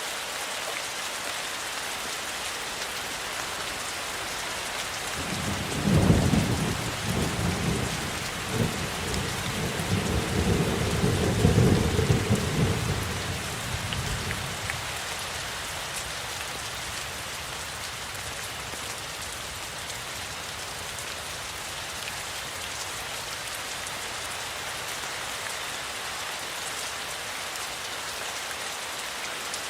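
Steady rainfall with a roll of thunder: the rumble starts about five seconds in, swells in two peaks and dies away about nine seconds later, leaving the rain alone.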